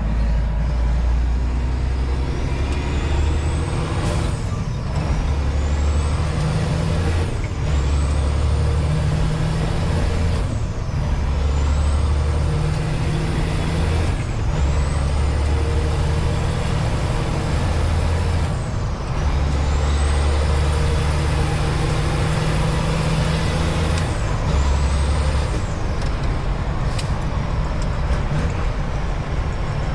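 Semi-truck diesel engine pulling away and accelerating through the gears. A turbo whine rises with each gear and drops at each shift, about seven shifts in all.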